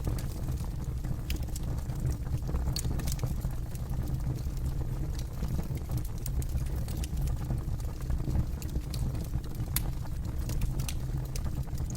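Campfire burning with a steady low rumble and irregular sharp crackles and pops from the burning wood.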